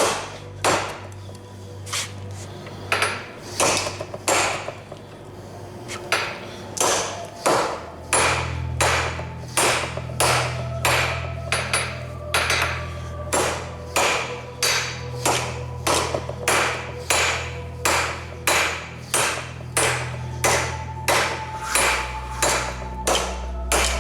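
Blacksmith's hammer striking hot steel on an anvil, forging a nail header from round tool steel, each blow leaving a short metallic ring. The blows are spaced out with a pause early on, then settle into a steady rhythm of about one and a half a second, over a steady low hum.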